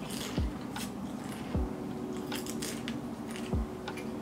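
Crunching and chewing of fried tortilla-chip nachos, a run of short crisp crackles.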